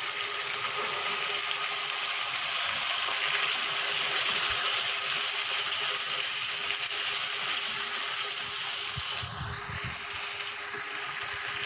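Carrots and masala sizzling in hot ghee in a wok as green peas go in and are stirred. The sizzle swells a few seconds in, holds, then drops off sharply about nine seconds in.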